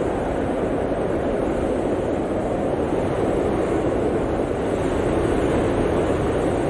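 Blizzard wind blowing as a steady, deep roar, swelling slightly in the last few seconds.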